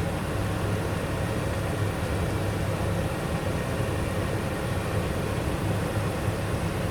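A steady low mechanical hum with an even rush of noise over it, unchanging throughout.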